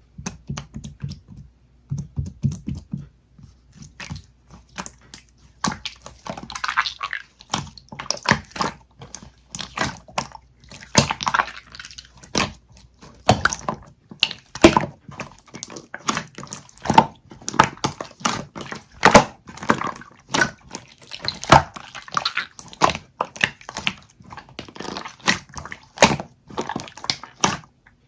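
Slime being squeezed and pressed by hand, giving a rapid, irregular string of wet clicks and pops that are soft and dull at first and turn sharper and louder about six seconds in.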